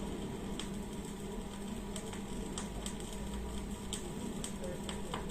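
Faint crackle and scattered ticks of a 1970s Dual automatic turntable's stylus riding the record's lead-in groove, heard through the phono stage over a steady low hum.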